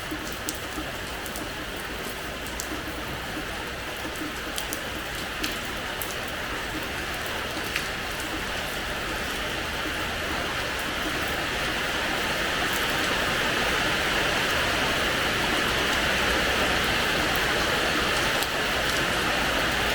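Rain falling on a terrace floor: a steady hiss of rain with scattered sharp drop ticks, growing heavier about halfway through.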